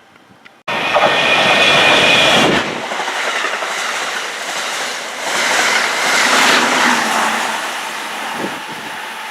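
Electric passenger train passing at speed close by, with a loud rush of air and wheels clattering over the rails. It starts suddenly about half a second in, swells again midway and eases off near the end.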